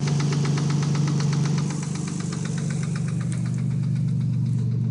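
A 1990 Nissan 300ZX's V6 idles steadily with a loud, rapid, even ticking from the valvetrain, strongest in the first few seconds and fading somewhat after about three seconds. The owner takes it for a really bad lifter tick and rules out rod knock.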